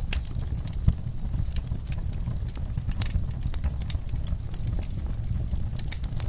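Wood fire burning in a fireplace: a steady low rumble of the flames with irregular crackles and pops, one sharper pop about a second in.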